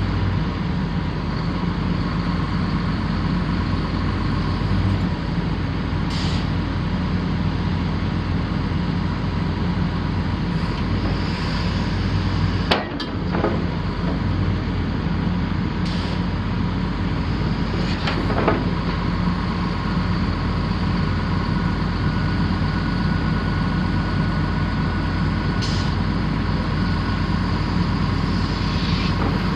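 Komatsu PC450LC-8 excavator's diesel engine running steadily, with a steady high whine. Over it come a few brief hisses and two sharp knocks, the loudest about thirteen seconds in.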